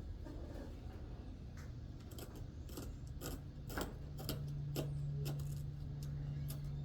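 A run of sharp clicks and knocks, like hand tools and parts being handled, then a steady low motor hum that comes in about four seconds in and keeps going.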